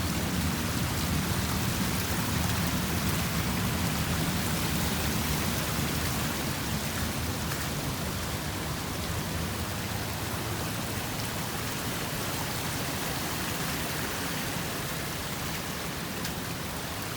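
Steady rush of floodwater pouring across a clearing that typhoon runoff has turned into a river, an even hiss of fast-flowing water that eases off slightly near the end.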